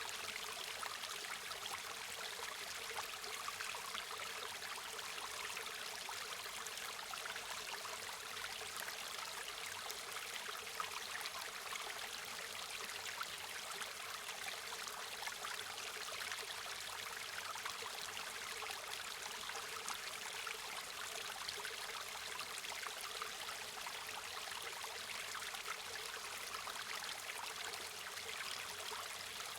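River water flowing: a steady rushing hiss flecked with fine splashes, light in the bass and unchanging throughout.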